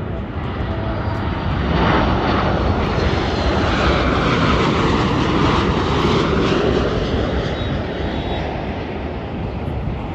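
Boeing 737 MAX 8 with CFM LEAP-1B turbofans passing close on approach to land, its engine noise swelling about two seconds in, with a sweeping tone that dips and climbs as it goes by, then easing off near the end.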